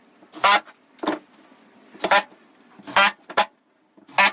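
Cordless drill/driver driving cement-board screws into Hardiebacker backer board, in short whirring bursts about once a second, six in all.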